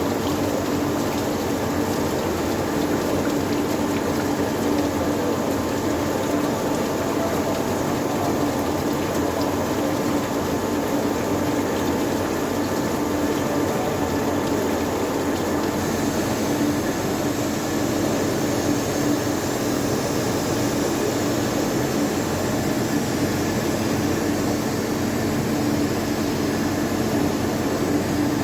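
Machinery running steadily: a continuous mechanical hum and whir with a fixed low tone, unchanging in level, with a little more high hiss from about halfway.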